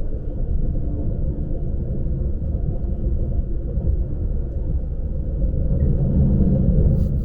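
Lastochka electric train running, heard from inside the carriage as a steady low rumble, swelling a little near the end, with a brief click just before it ends.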